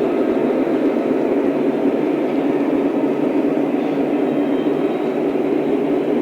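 Lionel O-scale model train running on its track, a steady, unchanging rumble.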